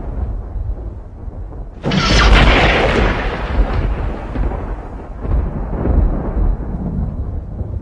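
Thunder: a sharp thunderclap about two seconds in, dying away into a long rumble over a steady low rumble of thunder.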